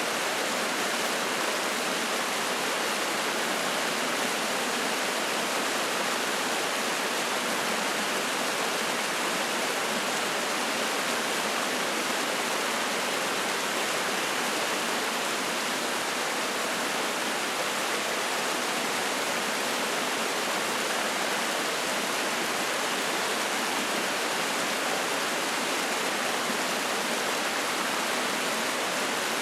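Spring-fed mountain stream, water rushing and splashing in a steady, unbroken flow.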